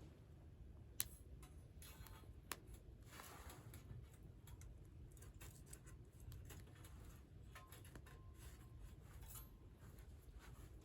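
Faint scraping and a few sharp clicks of a ferrocerium fire starter being struck, the loudest click about a second in and a short rasp around three seconds in, over quiet outdoor background.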